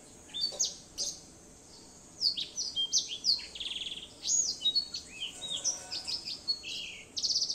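A songbird singing a varied song of short whistled notes and chirps, broken by two fast trills, one about midway and one near the end.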